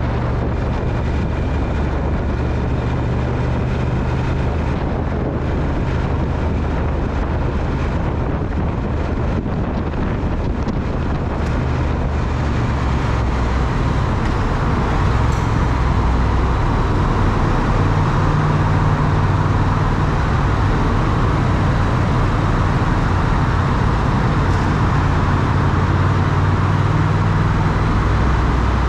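Triumph Speed Twin's parallel-twin engine running steadily on the move, under heavy wind and road noise. About halfway through, the wind noise grows louder and the engine note rises a little.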